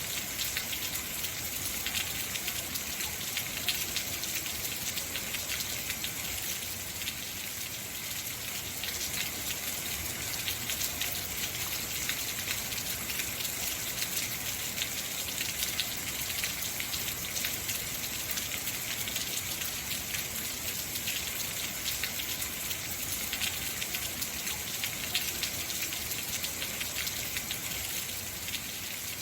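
Heavy rain falling steadily, a dense hiss of drops pattering on surfaces with no letup.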